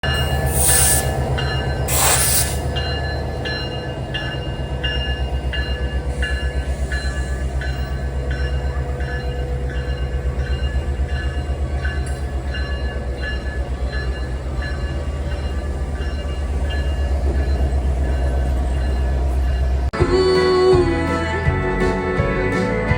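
A diesel locomotive runs with a low, pulsing rumble and steady ringing tones above it, with two short hissing bursts in the first few seconds. At about 20 seconds it cuts abruptly to country music.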